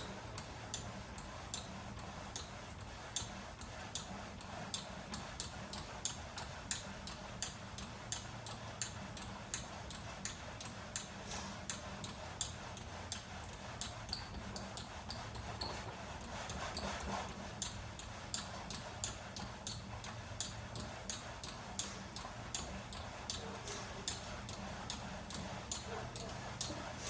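VersaClimber vertical climbing machine squeaking in a steady rhythm of short, sharp strokes, about two a second, over a low hum. The replacement machine makes the same squeak as the first unit, which the owner takes for a defect.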